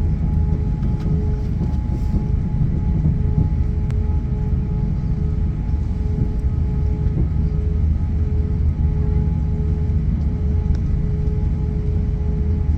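Airbus A350-900's Rolls-Royce Trent XWB engines running steadily: a constant low rumble with a steady whine over it.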